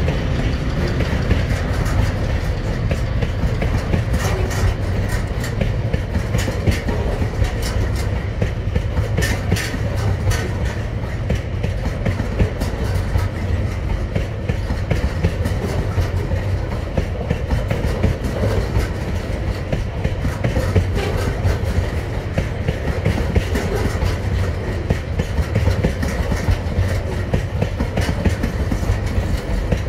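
Container wagons of a long freight train rolling past, a steady low rumble from the wheels on the rails with frequent sharp clicks and clatter from the wheels and couplings.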